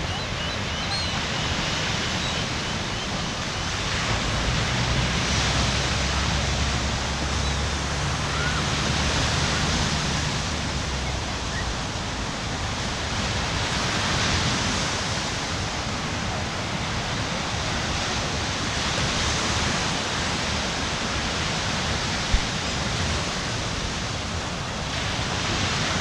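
Ocean surf washing onto the beach, a steady rush that swells and eases every four to five seconds. A few bird chirps come in the first second, and there is a single sharp click about two-thirds of the way through.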